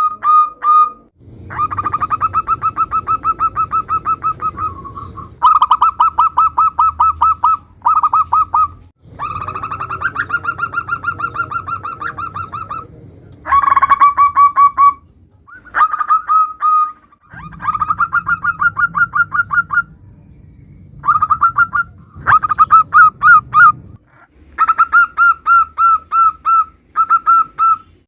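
Zebra doves (perkutut) cooing: fast runs of pulsed, pitched notes in repeated phrases. Phrase after phrase breaks off abruptly, with the background changing between them.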